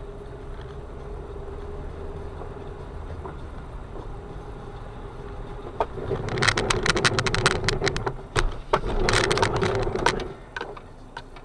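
Steady low vehicle hum with a faint constant tone, then from about six seconds in a stretch of loud clattering and knocking lasting about four seconds before it dies away.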